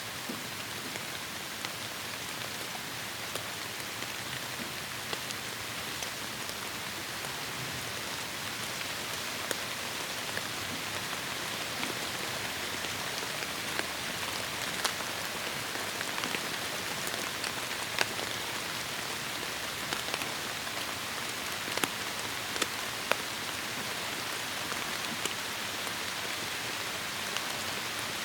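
Heavy rain falling steadily through forest, an even hiss with sharp individual drops pattering on leaves and surfaces, the drops more frequent in the second half.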